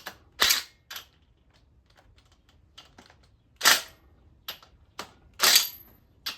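Sharp metallic cracks and clicks of a wrench on engine main cap bolts as they are broken loose: four loud cracks a second or two apart, with lighter clicks between.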